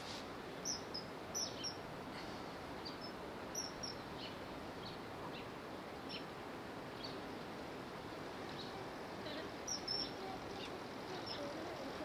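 Short, high-pitched bird chirps, scattered irregularly and loudest about a second in and near ten seconds, over a steady background hiss.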